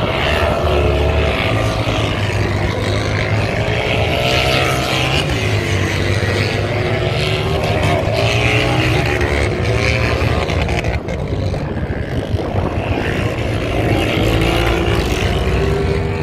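Motorcycle engine running hard under throttle, its pitch rising and falling as the rider opens and closes the throttle, with a brief drop about eleven seconds in.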